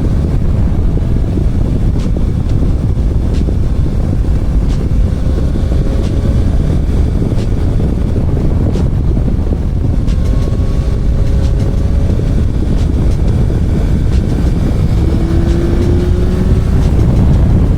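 Motorcycle riding at speed: loud wind buffeting on the microphone, with the engine faintly heard beneath, its pitch slowly rising and falling and briefly climbing near the end.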